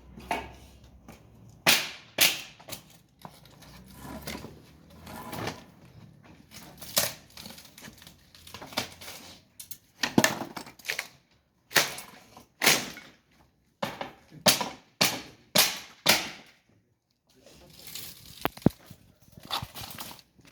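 Wood from a wooden bed frame being broken apart by hand: a run of sharp cracks, snaps and knocks at irregular intervals, sometimes two or three in quick succession.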